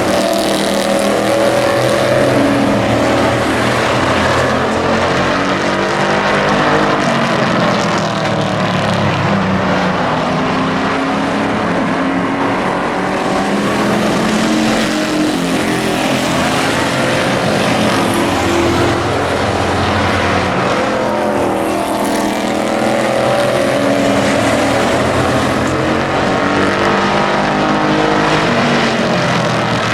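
Several hobby-class race trucks' engines running together on the track, their overlapping pitches rising and falling as they power along and lift off.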